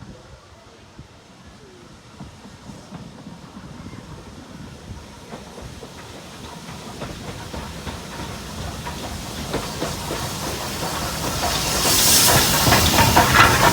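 Steam locomotive and its train approaching and growing steadily louder, with knocks of wheels over rail joints. A loud hiss of steam comes in about two seconds before the end.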